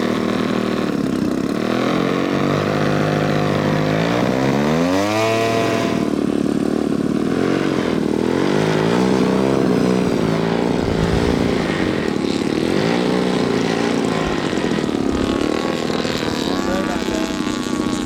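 Radio-controlled model airplane engine and propeller running at varying throttle: the pitch climbs steeply about four seconds in as it is revved up, then keeps rising and falling.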